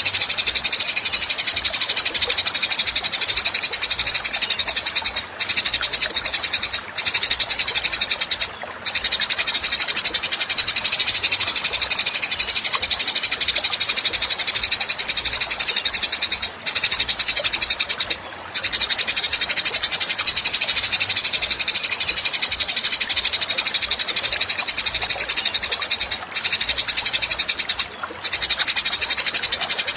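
Recorded masteran tutor sound for songbirds: a continuous high, rapidly pulsing buzzing trill, broken by brief pauses that repeat about every ten seconds as the recording loops.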